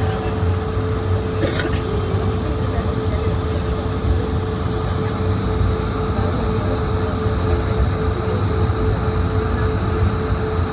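Steady cabin noise inside an Airbus A220-100: a low rumble with a constant hum running under it, and a brief click about a second and a half in.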